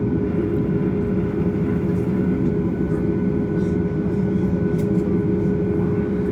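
Steady cabin drone inside a Boeing 737 MAX on the ground before takeoff, with a low rumble and a constant hum from the engines and air system running at low power.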